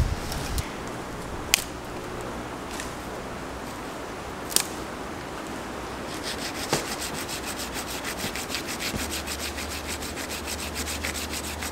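Saw cutting through wood in quick, even strokes, starting about halfway through. Two sharp clicks come before it.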